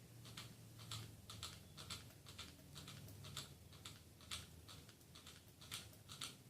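Faint, irregular light clicks and ticks, about two a second, over a low steady hum.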